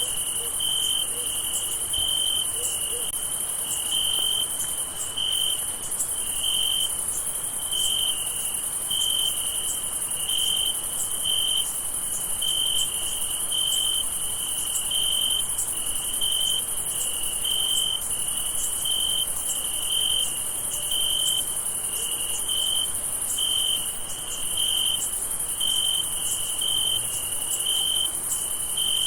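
Crickets chirping: one chirps in a regular pulse, about three chirps every two seconds, over a steady high-pitched trill.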